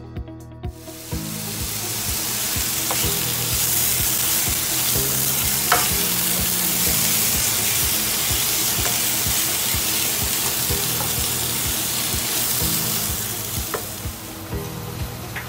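Pork and onion sizzling as they fry in a nonstick pan, stirred with a spatula, over background music with a steady beat. The sizzle starts about a second in and dies away near the end, leaving the music.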